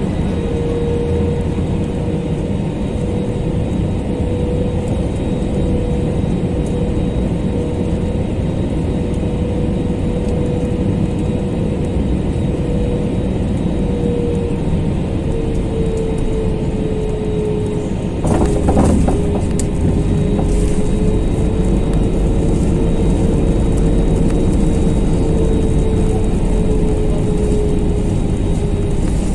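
Steady cabin noise of an Airbus A321neo in flight: engine and airflow noise with a steady hum running through it. A brief clatter comes about 18 seconds in, after which the noise is slightly louder.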